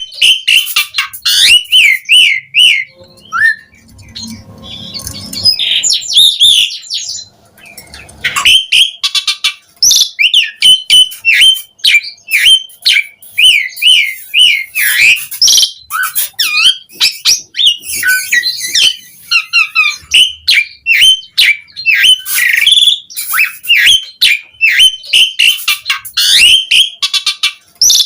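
Asian pied starling singing loudly in a long, fast, varied song of rapid repeated chirps and whistles, mixed with harsh rasping squawks, with a harsher stretch a few seconds in. The song is the full, varied song, packed with many different phrases, that keepers play to make other starlings answer.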